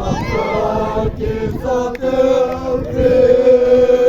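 A group of voices chanting together, sliding between notes at first and then holding one long steady note from about halfway through.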